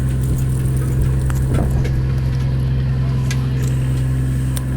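Fishing boat's engine running steadily with a constant low hum, with a few light clicks and knocks on top.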